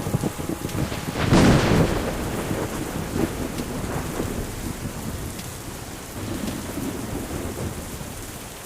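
Thunderstorm: steady rain with low rumbling thunder. A louder thunder crack comes about a second in, and the storm slowly fades away near the end.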